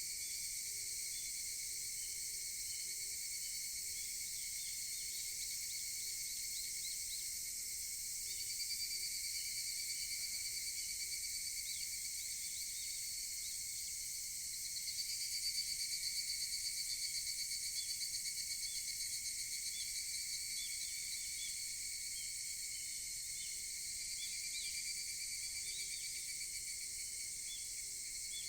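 Higurashi (evening cicadas) calling in rapid pulsed trills that swell and fade three times, loudest about halfway through, over a steady high-pitched insect chorus.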